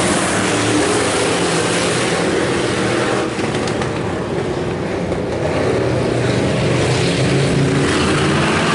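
A pack of IMCA Hobby Stock cars racing at full throttle on a dirt oval on the green-flag restart, many engines running together. The sound eases off a little about three seconds in and builds back up near the end as the field comes around.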